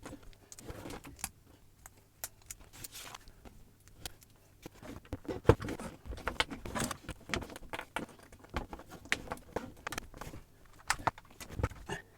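Plastic building bricks clicking and rattling as pieces of a brick-built model car are pressed together and handled: many small irregular clicks, busier in the second half.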